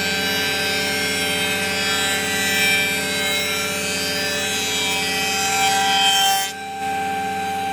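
Power tool running and cutting wood: a steady machine whine with several tones over a hiss. About six and a half seconds in the high hiss drops away while the motor keeps running.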